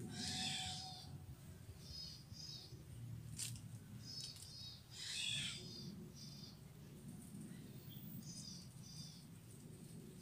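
Bird calling in forest: short, high chirps, mostly in quick pairs, repeated every couple of seconds, with two louder, harsher calls just after the start and about five seconds in.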